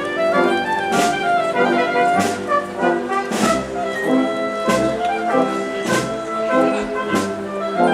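Spanish wind band (banda de música) playing a processional march: sustained brass and woodwind chords, with a cymbal and drum beat about every 1.2 seconds.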